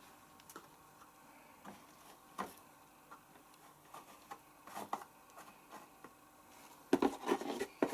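Scattered light clicks and taps from detergent being handled and added to a washing machine, with a quicker run of louder rattling clicks near the end.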